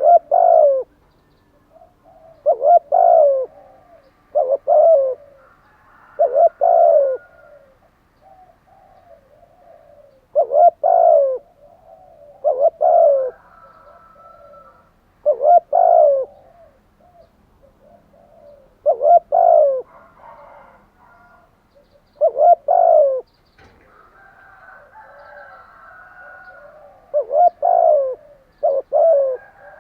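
Spotted dove cooing, loud repeated coo phrases every two to four seconds, with fainter chirps of other small birds between them.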